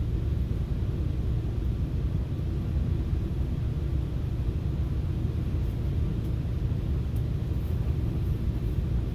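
Steady low rumble of a FrontRunner commuter train running along the track, heard from inside the passenger car.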